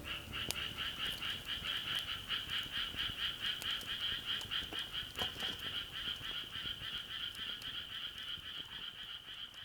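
An animal's rhythmic trilling call: a steady, unbroken train of several quick pulses a second.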